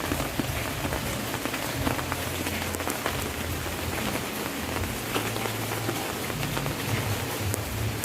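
Steady rain falling on hard surfaces, with many separate drops striking close by.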